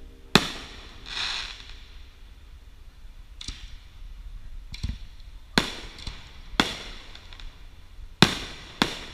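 Aerial fireworks shells bursting at a distance: five sharp booms, one about half a second in, then three more a second or so apart from about five and a half seconds on, and a last one just before the end, each with a short echoing tail. A fizzing crackle follows the first boom.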